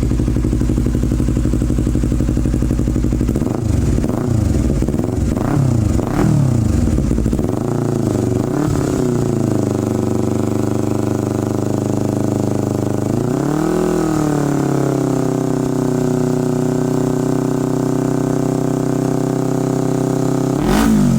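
Motorcycle engine through a modified Akrapovic aftermarket exhaust with a modified baffle. It idles, then the throttle is blipped in several short revs, after which the engine is held at steady higher revs with another rev about two-thirds through and one near the end.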